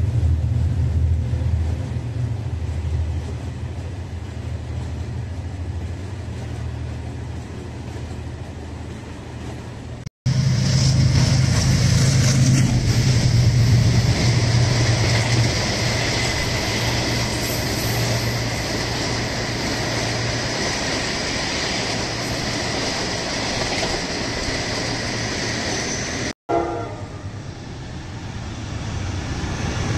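Egyptian passenger trains passing at speed, heard in three cuts. First a coach train's rumble on the rails, easing off. Then a louder train rumbles past with a thin, steady high tone over it. Last a diesel locomotive approaches, its sound growing.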